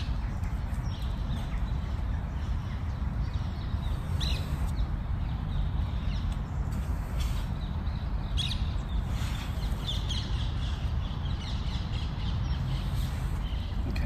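Birds calling in the background: a few short calls about four seconds in and more between seven and eleven seconds, over a steady low rumble.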